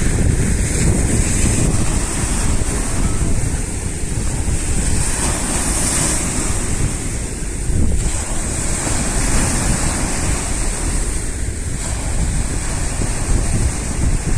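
Sea surf washing onto the shore, with strong wind buffeting the microphone in a constant low rumble.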